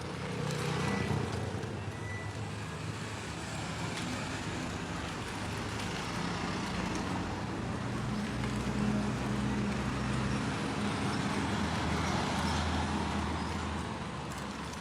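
Steady road traffic noise: a low engine hum under an even hiss.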